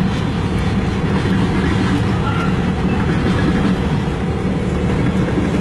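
Freight cars of a long CN train rolling past at trackside: a steady, loud rumble of steel wheels on rail, with faint clicking over the rail joints.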